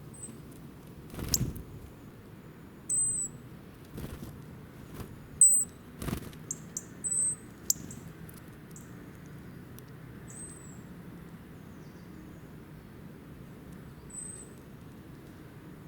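Short, high-pitched bird chirps, scattered singly and in quick little runs, most of them in the first half, with a few sharp clicks between them.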